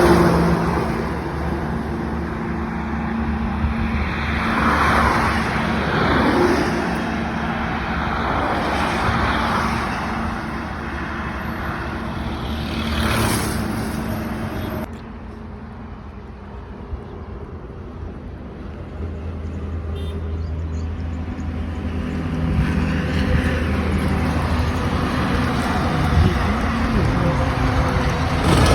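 Motor vehicle running, with a steady engine hum and road noise; the sound changes abruptly about halfway through, going duller and quieter before building again.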